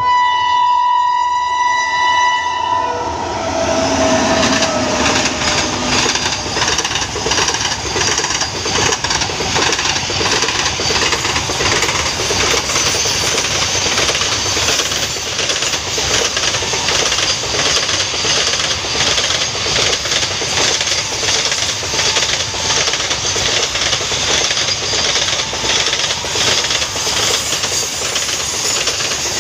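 WAG-9 electric locomotive's horn sounding for the first two to three seconds, its pitch dropping as the locomotive passes, then a long container freight train rushing past at about 100 km/h with a steady rattle and clatter of wagon wheels on the rails.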